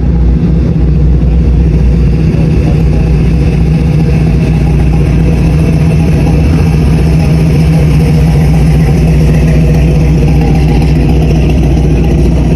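A car engine running loud and steady at close range, with a deep even drone and no clear revs. It starts and stops abruptly.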